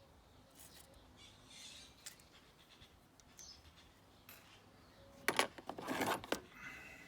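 Small hard parts being handled: faint scattered clicks, then a short cluster of sharp metallic clinks and rattles about five seconds in, typical of spark plugs and tools being picked up and set down.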